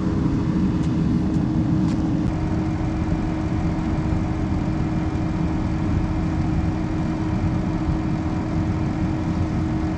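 Steady running noise of a road vehicle, with a constant low drone and no change in pitch.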